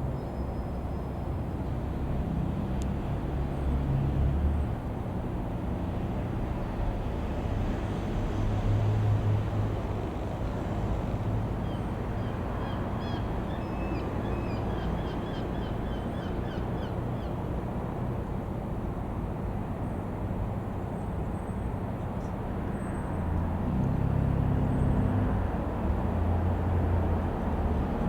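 Single piston engine of a Robin R3000-140 light aircraft passing in flight, a steady rumble that swells and fades over the microphone's low wind noise, with a bird calling in quick chirps in the middle.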